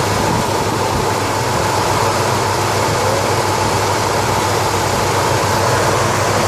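1973 Cadillac Eldorado's 500 cubic-inch V8 running steadily.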